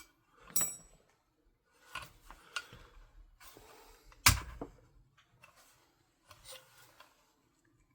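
Metal airsoft rifle parts being handled during reassembly: scattered clicks and scrapes, a small metal clink with a brief ring about half a second in, and one sharp knock a little past four seconds.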